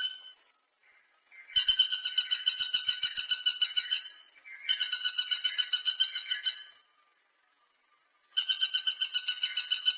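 Woodpecker calling: three bouts of about two seconds each of a rapid run of high, even notes, about eight a second, with short pauses between bouts.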